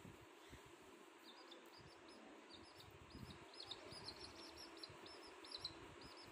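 Faint, rapid high-pitched chirping of small birds, starting about a second in and going on at several short chirps a second, over a low room hiss.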